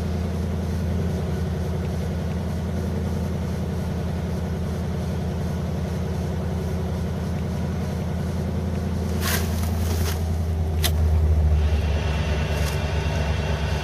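Chevrolet 305 small-block V8 idling steadily in a car just started after two years unused, not yet warmed up. A short hiss a little after nine seconds in and a click about a second later, then the engine note rises slightly.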